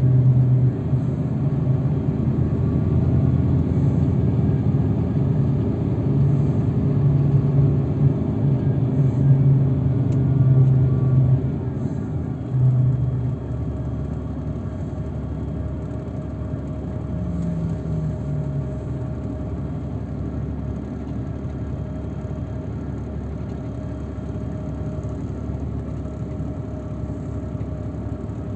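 Engine and road rumble of a transfer shuttle on the move, louder for about the first twelve seconds, then settling to a quieter, steady hum with a brief falling engine note near the middle.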